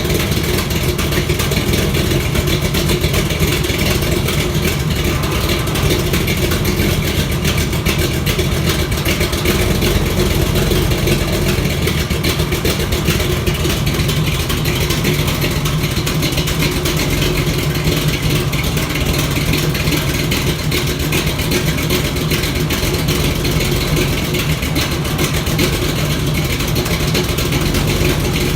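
1976 Chevrolet Monte Carlo engine running steadily, with an exhaust leak.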